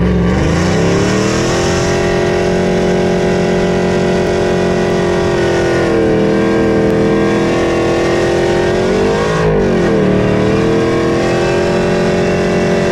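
Pickup truck engine revving up in the first second, then held at high, steady revs, with a brief wobble in pitch about nine and a half seconds in.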